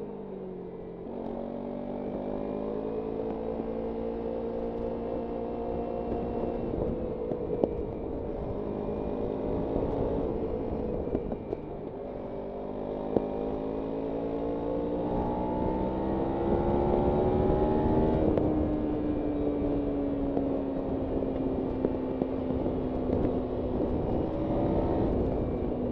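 Kawasaki Ninja 300's parallel-twin engine pulling hard through canyon corners, its pitch climbing and falling back several times as the throttle is opened and closed, with a sharp drop about two-thirds of the way through before it holds steady. Wind rush on the microphone runs underneath.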